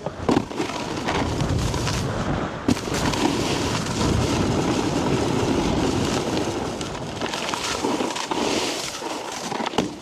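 Snowboard riding over snow: a continuous scraping hiss of the board's base and edges, with wind buffeting the microphone and a couple of sharp knocks early in the run.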